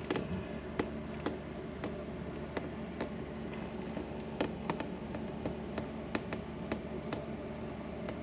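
A series of light, irregular clicks and taps, about one or two a second, over a steady low hum: handling noise as things are moved about.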